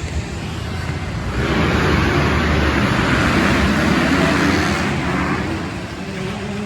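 Dirt bikes racing round the arenacross track, their engine noise swelling as the pack passes, loudest a couple of seconds in, then fading.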